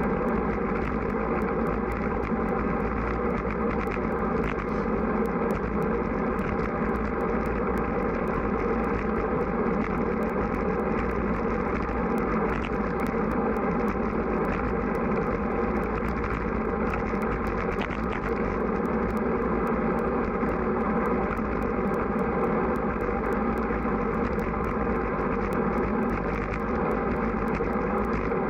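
Strong wind rushing over the microphone of a moving road bike, a steady, unbroken noise with a heavy low rumble.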